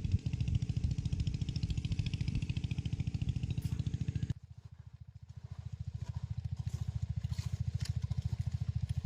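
An engine running steadily with an even low beat; the sound changes abruptly about four seconds in, losing its higher hiss, and then runs on.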